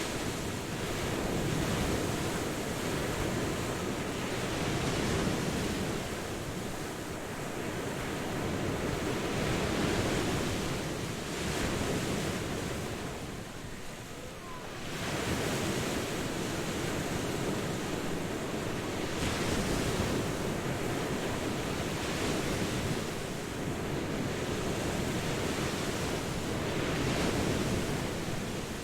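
Ocean surf: waves breaking and washing in a continuous rush that swells and ebbs every few seconds, with a brief lull about halfway through before the next wave surges in.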